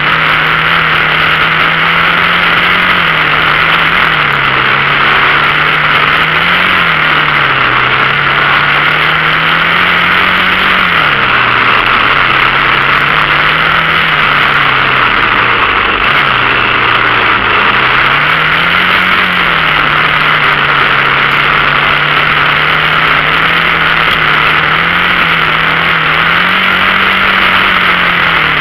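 Dirt bike engine running steadily while riding, its revs rising and falling every few seconds with the throttle.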